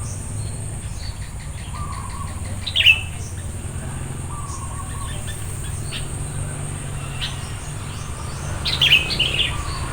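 Sooty-headed bulbuls calling: a short burst of sharp chirps about three seconds in, and a louder cluster near the end, with fainter chirps between. A steady low hum runs underneath.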